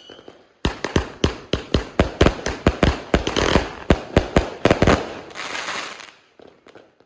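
A 138-shot firework cake firing its finale: a fast volley of sharp bangs, about four or five a second, then a short burst of crackling that dies away.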